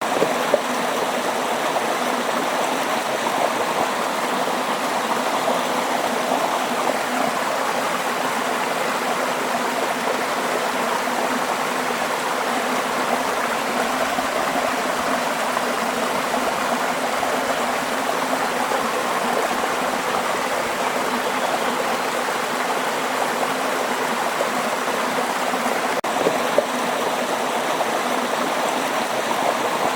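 Running water, a stream flowing steadily with an even rushing sound.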